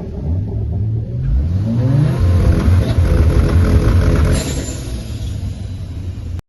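Car engine revving up: its pitch climbs about a second and a half in, holds loud for a couple of seconds, then eases off.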